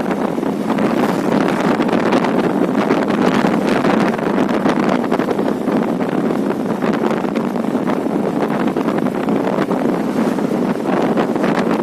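Steady wind buffeting the microphone: a loud, even rush with no distinct events.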